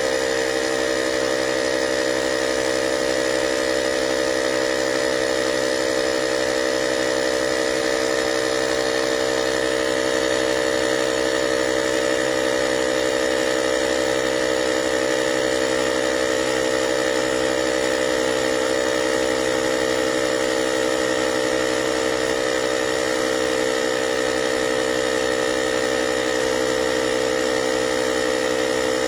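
AUTDER cordless portable tyre inflator's small electric air compressor running steadily, its motor pitch unchanging.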